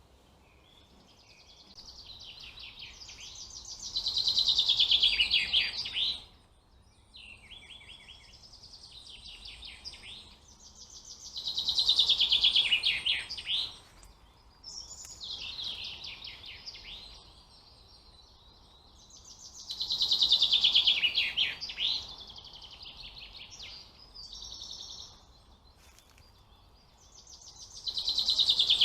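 A songbird singing the same song over and over: a loud, rapid trilled phrase that falls in pitch, about every eight seconds, with quieter notes in between.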